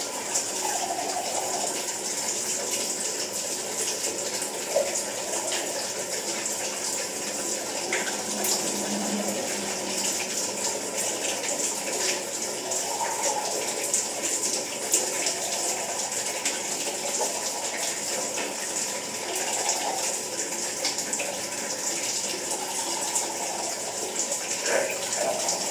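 Water running steadily from a tap, a constant gush with no break.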